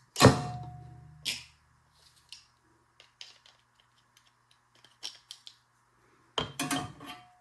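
Metal clanks and clicks from a piston ring compressor being fitted over a small-engine piston's rings. A loud clank with a brief metallic ring comes about a quarter second in, then a second clank and a few light clicks, and another cluster of clanks with the same ring near the end.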